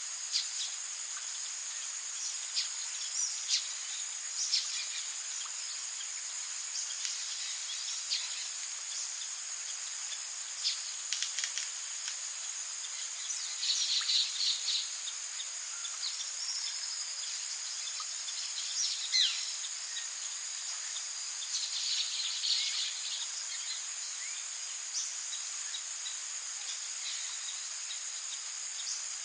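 Rainforest ambience: a steady high-pitched insect drone over rain hiss, with scattered sharp drips. Short bursts of bird calls come about halfway through and again about two-thirds of the way through.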